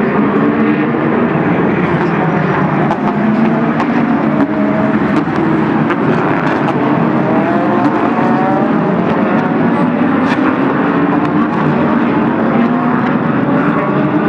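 IMSA sports car racing engines as cars run past on track, several engines at once, their pitch gliding up and down as they pass, with no break in the sound.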